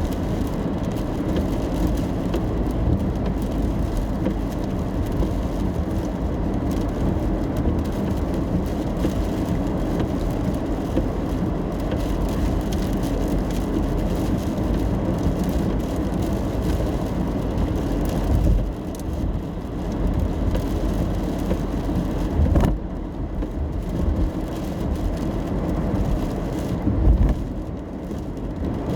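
Steady road noise of a car driving in the rain, heard from inside the cabin: the low hum of engine and tyres on wet pavement. The noise eases a little about two-thirds of the way through, and there is a brief knock shortly after.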